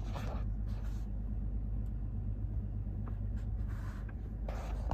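Steady low rumble of a car idling, heard inside the cabin, with a few short soft rustling noises.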